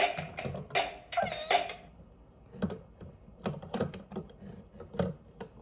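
Tweet Beats singing-bird toy playing its drum part: a few short chirpy tones in the first two seconds, then a run of sharp electronic drum clicks and knocks.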